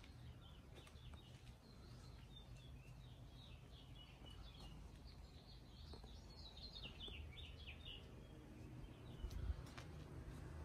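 Faint outdoor bird song: a run of quick high chirps and short trills, busiest about six to eight seconds in, over a low rumble, with a brief bump near the end.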